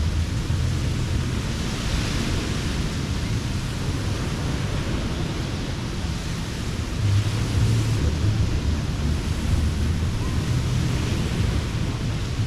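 Ocean surf washing on a sandy beach, the hiss swelling as waves come in a few seconds apart, over a low rumble of wind on the microphone.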